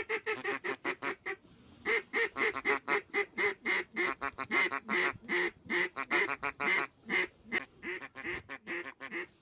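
Mallard-style quacking: a long, fast run of quacks, about four or five a second, with a short break about a second and a half in.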